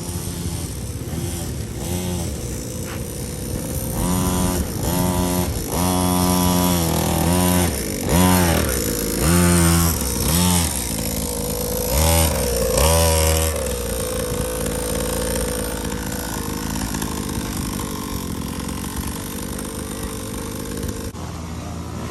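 50cc youth dirt bike engine revving, its pitch climbing and dropping about ten times in quick succession through the middle, then running at a steadier pitch near the end.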